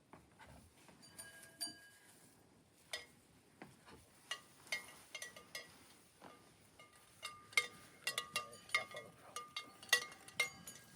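Small metal bells on livestock clinking and ringing as the animals move, sparse at first and coming thick and fast in the second half.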